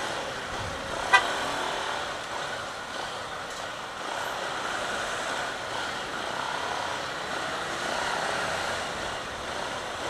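Steady road noise of a motorcycle riding in city traffic, with a single short horn toot about a second in.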